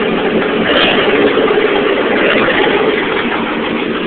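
Swapped-in 1989 Chevrolet 4.3 L V6 in an S10 pickup running steadily just after its first start-up following the engine swap.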